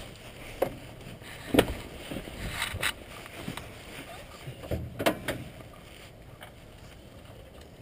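A handful of scattered knocks and clicks as a car's hood is unlatched and lifted.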